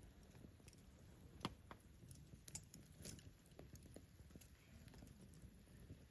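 Wood campfire crackling faintly: scattered sharp pops and snaps, the loudest about a second and a half in, over a low rumble.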